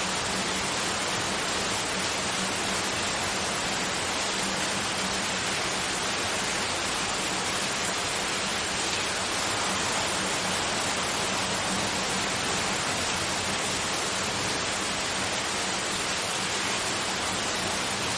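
Continuous white noise: a steady, even hiss of the rain-like kind, unchanging throughout, with a faint low hum underneath.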